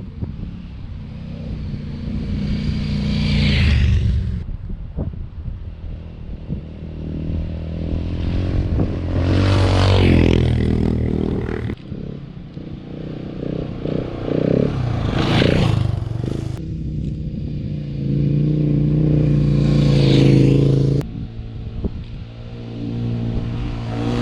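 Adventure motorcycle engine revving up and easing off over and over as the bike rides through sand, with rushing noise over it. The sound breaks off abruptly a couple of times.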